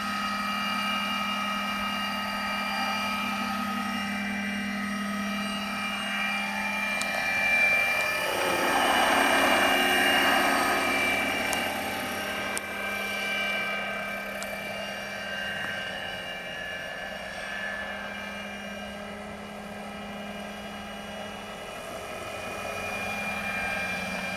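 Giant-scale electric RC Schweizer 300C helicopter in flight: a steady whine from the electric motor and drive, with rotor noise. It gets louder with a rushing sound for a few seconds about eight seconds in, then eases off.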